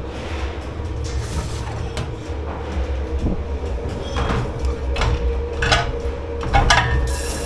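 Dishes and pots being handled in a commercial kitchen dish pit: about six short clatters and knocks over a steady machine hum with a constant tone. Near the end, water starts running with a steady hiss.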